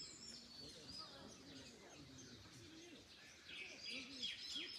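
Wild birds calling faintly in quick runs of short, high, dropping notes, one run near the start and another near the end, over a low outdoor background hiss.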